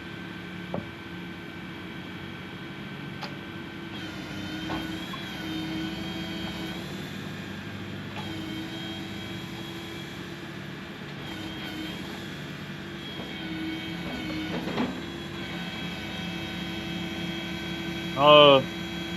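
Excavator engine running steadily, with a whine that shifts a little in pitch several times. A brief loud high-pitched squeal comes near the end.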